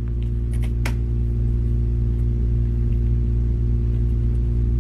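A steady low hum with a few light clicks about a second in.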